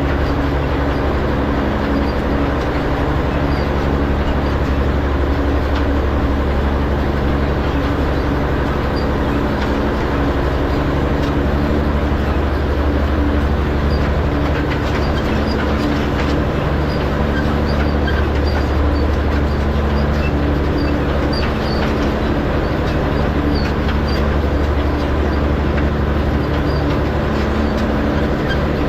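Farm tractor engine running steadily while pulling a hay rake to turn windrows, its pitch shifting slightly now and then.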